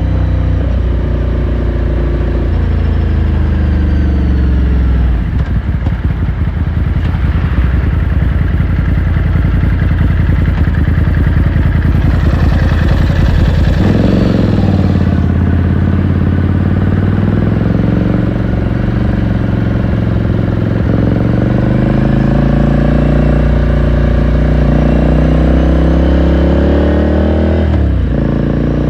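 Ducati Scrambler Sixty2's 399 cc air-cooled V-twin running on the road. The revs fall away over the first few seconds, climb sharply about halfway through and ease off, then dip and rise again near the end, as on a gear change.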